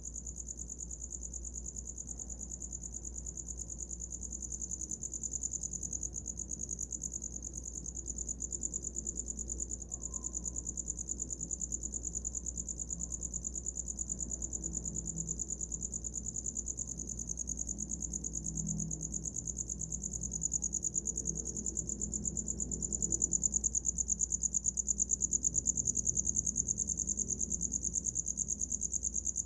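Cricket chirping without pause: a high, steady trill of very rapid pulses, with a faint low hum beneath.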